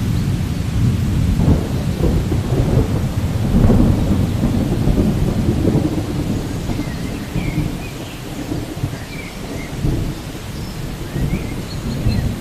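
Rolling thunder rumbling low over steady rain, swelling and easing for the whole stretch. A few faint, short high chirps come through in the second half.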